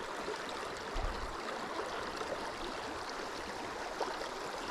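Shallow river current running steadily over rocks, with a soft low thump about a second in.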